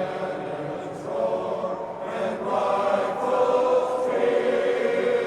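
Men's glee club choir singing together in held, sustained chords.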